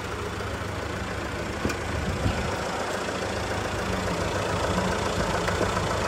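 Car engine running steadily at low revs, with a short click a little under two seconds in.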